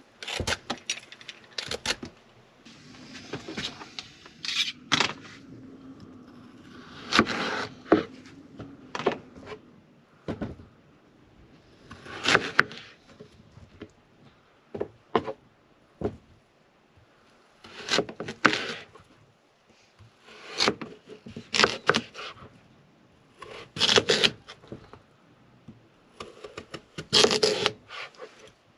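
A blade scraping and cutting through a daikon radish on a cutting board: irregular strokes and knocks every one to three seconds.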